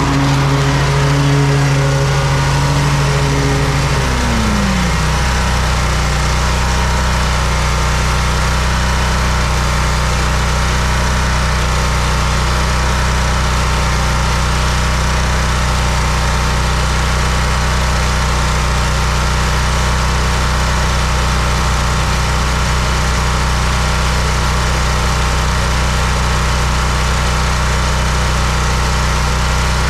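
Lawn mower engine running steadily. About four seconds in its pitch drops and then settles to a lower, even drone.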